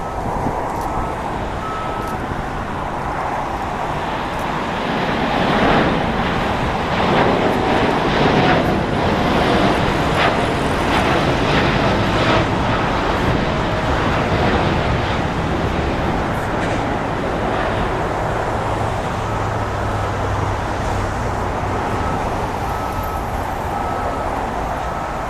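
Boeing 787-10 airliner's jet engines at takeoff power, a loud rushing noise that swells about six seconds in and then slowly fades as the aircraft passes and climbs away.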